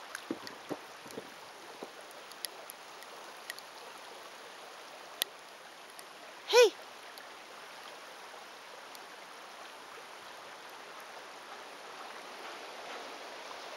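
A few footsteps crunching in snow over a steady soft hiss, with one short, loud, high-pitched call about six and a half seconds in.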